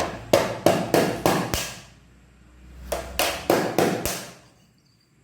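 A baby beating a drum by hand: a run of about six strikes at roughly three a second, a pause of about a second, then five more strikes.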